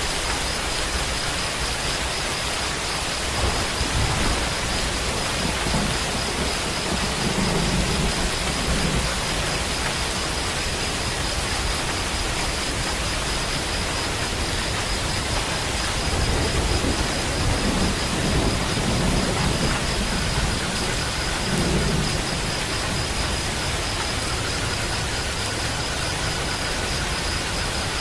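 Steady rain falling, with low rumbles of thunder swelling up a few times, the longest about two-thirds of the way through.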